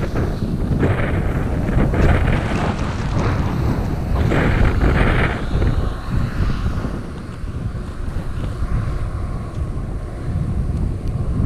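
Wind buffeting the microphone while going downhill on icy snow, with hissing bursts of edges scraping over the hard, icy surface in the first half.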